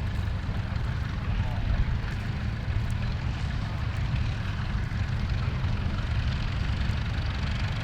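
Massey Ferguson tractor engine running steadily in the field, a continuous low rumble, typical of a tractor pulling a plough.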